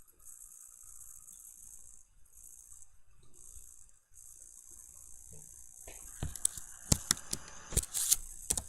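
Faint steady hiss, then, a little after six seconds in, a short run of irregular sharp clicks and rattles that lasts about two and a half seconds.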